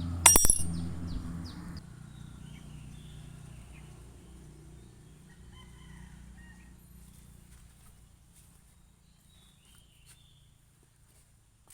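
A few sharp clicks of metal tools being handled at the start, with a low hum that cuts off under two seconds in. Then a quiet background with faint bird calls, like distant chickens clucking.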